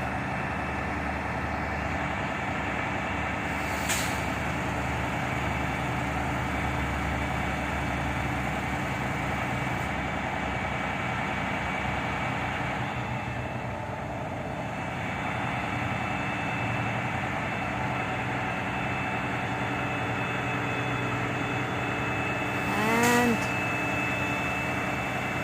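Shingle delivery truck's engine running steadily, with a sharp click about four seconds in and another near the end, where a short voice is also heard.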